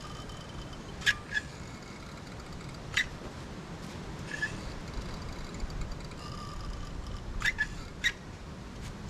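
A handful of sharp knocks or taps, some in quick pairs, over a steady low background rumble, with faint thin high calls behind them.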